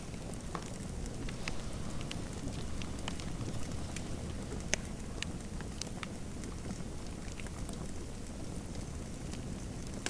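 Fireplace fire crackling: a steady low rush with scattered sharp, irregular pops.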